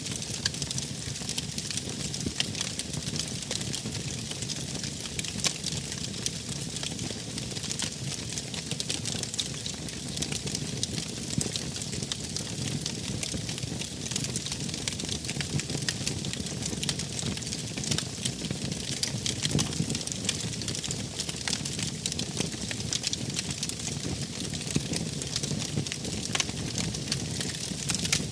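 Fire burning steadily, crackling with frequent small snaps and pops over a continuous hiss and low rumble.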